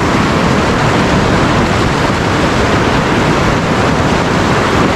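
Loud, steady rush of river whitewater through a rapid.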